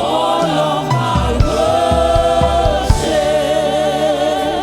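Church choir singing a gospel praise song over a live band with bass and drums, holding long notes between lines.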